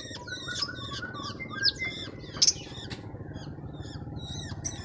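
Many small birds chirping rapidly and continuously, with two louder sharp calls about one and a half and two and a half seconds in, over a steady low hum.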